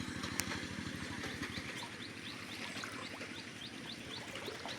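A small engine running with a rapid even beat, fading away about a second and a half in. Short high rising chirps repeat about three times a second throughout, with one sharp click near the start.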